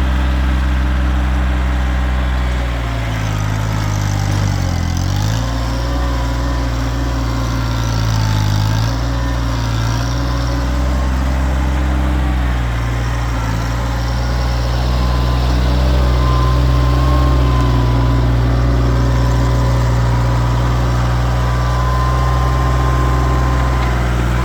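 Kioti tractor's diesel engine running steadily, its pitch sagging briefly a few times as if under load, with a thin wavering whine above it.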